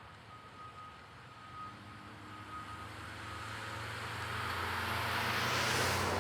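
A road vehicle passing: engine and tyre noise that swells over a few seconds and is loudest near the end.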